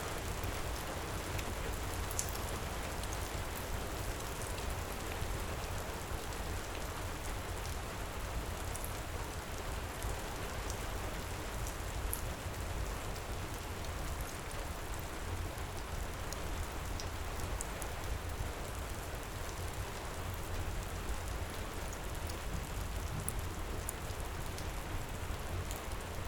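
Heavy rain pouring steadily, with a few faint, sparse crackles from a fireplace fire.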